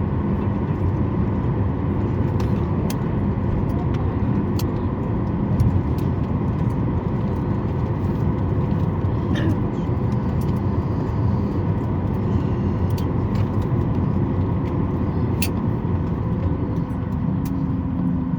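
Cabin noise inside a Boeing 737 MAX 8 taxiing after landing: a steady low rumble from the idling CFM LEAP-1B engines and the airframe, with faint steady whines and a few light clicks. A new low tone comes in near the end.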